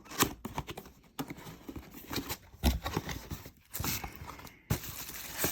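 Cardboard box and packaging being handled and opened, with a string of irregular knocks and clicks and rustling between them.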